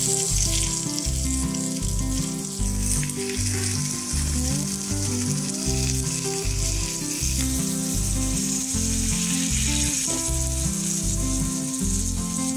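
Food sizzling as it fries in hot oil in a pan. The sizzle comes in abruptly and then runs steadily, over background music with a repeating bass line.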